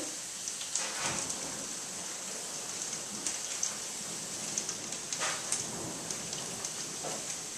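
Steady rain falling during a thunderstorm, an even hiss with a few sharper drip taps, about a second in and again around five seconds in.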